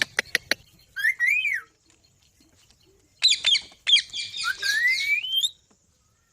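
A pet green parrot calling: a few sharp clicks, a short rising-and-falling note, then a run of harsh squawks that ends in a long rising whistle, with the last second quiet.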